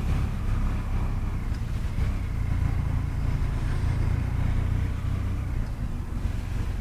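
Vehicle on the move: a steady low rumble of engine and road noise with no distinct events.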